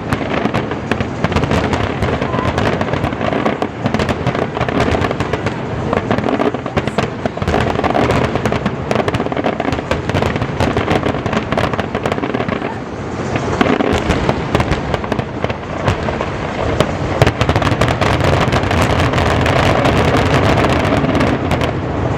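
Fireworks display: a dense, unbroken barrage of bursts and crackling reports, many overlapping each second.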